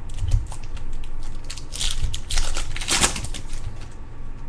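Foil wrapper of a Bowman Chrome baseball card pack crinkling and tearing open, with the cards clicking against each other as they are handled. It is a dense crackle that is thickest near the middle and dies down near the end.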